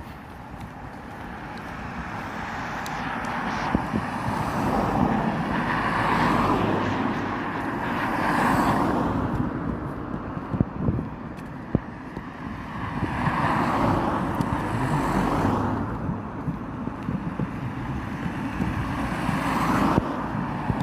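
Road traffic passing close by, several cars one after another, each swelling and fading as it goes past.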